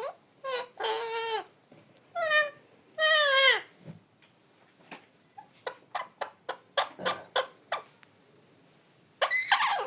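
Parrot calling: four drawn-out pitched squawks in the first few seconds, a quick run of about ten short clicking chirps in the middle, then one loud call near the end.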